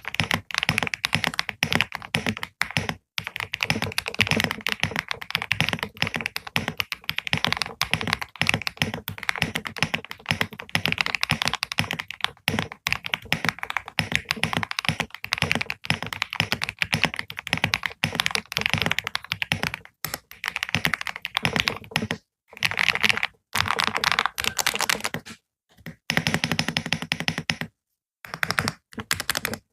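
Computer keyboard being typed on in a fast, steady stream of key clicks, with a few short pauses near the end.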